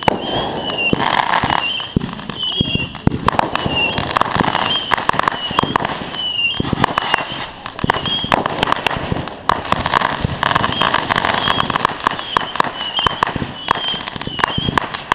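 Consumer fireworks crackling and popping without a break: dense, irregular rapid cracks, like a firecracker string or crackling cake going off.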